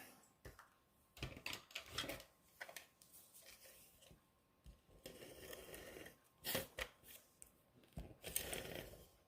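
Faint, irregular taps and paper rustles from hand-stamping: a rubber stamp being inked and pressed along the bottom of an envelope to make a flower border.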